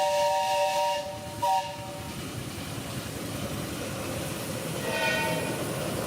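Miniature steam locomotive's whistle sounding a steady chord that stops about a second in, then a brief toot, and another short whistle about five seconds in, over a steady hiss of steam.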